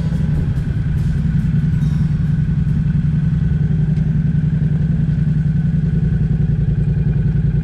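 Motorcycle engine running steadily at an unchanging pitch, with an even, rapid pulse.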